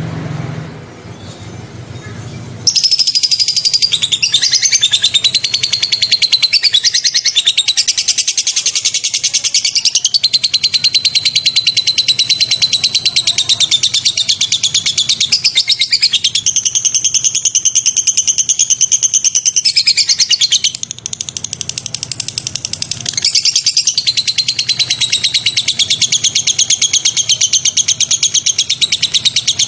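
A songbird giving a fast, sharp, rattling trill of high notes, near-continuous after a quieter first couple of seconds, with a short break about two-thirds of the way through.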